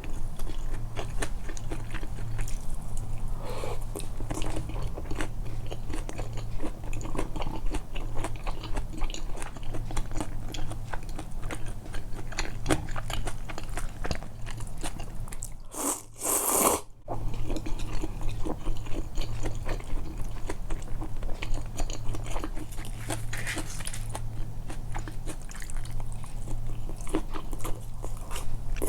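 Close-miked chewing and biting of food, emphasized for eating-sound ASMR, as dense small mouth clicks over a low steady hum, broken by a brief pause about sixteen seconds in.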